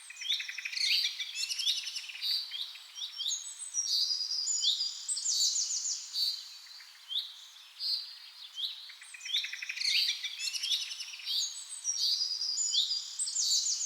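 Small birds chirping and trilling, several high calls overlapping in a busy, continuous chorus.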